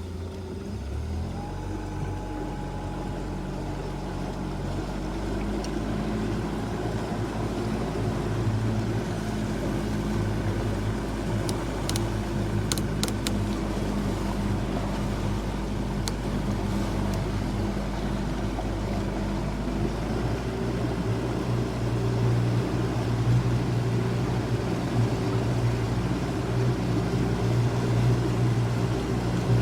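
Motorboat engine running steadily, slowly growing louder, with a few sharp clicks about twelve seconds in.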